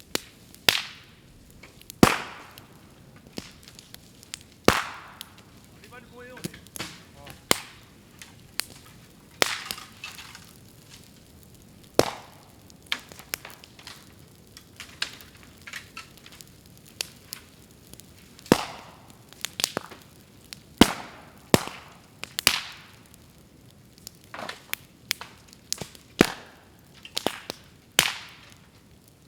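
Bamboo burning in a bonfire, its culms bursting with sharp pops and bangs at irregular intervals, roughly one every second or two, some loud and some faint, each with a short fading tail.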